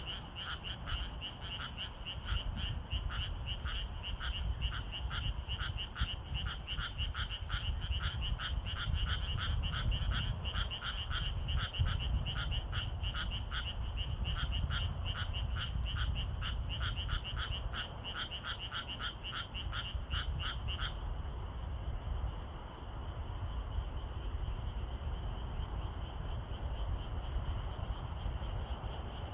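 A frog calling in a fast, even train of croaks, about three a second, with a short break midway, stopping about two-thirds of the way through. A steady high-pitched insect trill continues underneath and is left alone after the frog stops, over a low rumble.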